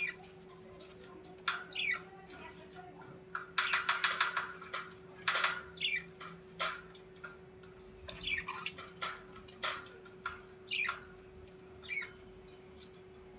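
A bird calling repeatedly: harsh squawks and short calls that sweep quickly down in pitch, coming every second or two over a steady low hum.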